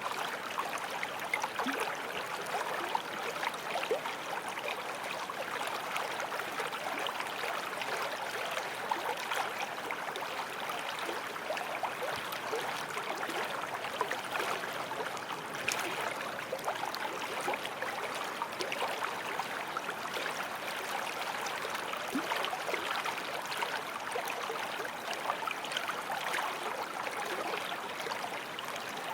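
Forest stream flowing over stones, a steady babble of running water with small splashes and gurgles throughout.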